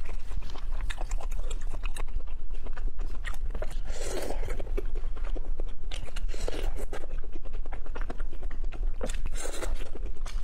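A person chewing and biting spicy seafood close to a clip-on microphone: steady crunching with many quick wet mouth clicks, and a few longer, louder mouth noises about four, six and a half and nine and a half seconds in. A steady low hum runs underneath.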